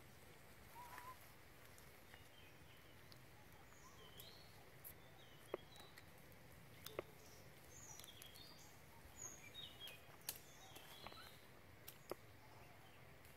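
Faint forest ambience with scattered high bird chirps and about four sharp clicks.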